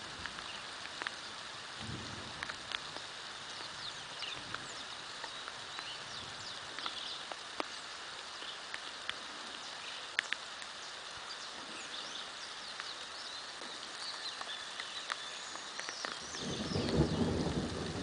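Steady rain falling, with birds chirping repeatedly and scattered sharp drip ticks. Near the end a low rumble of thunder builds and grows louder.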